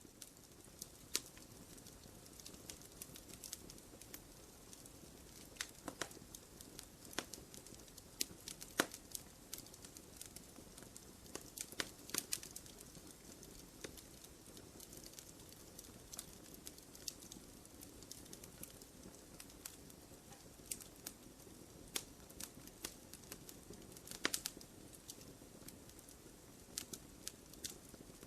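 Wood fire crackling in a fireplace: a steady low hiss of burning, broken by irregular sharp pops and snaps, with a few louder pops about nine, twelve and twenty-four seconds in.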